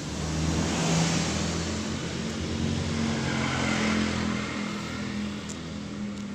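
A motor vehicle engine going by close at hand: it swells over the first second, holds, then fades away toward the end.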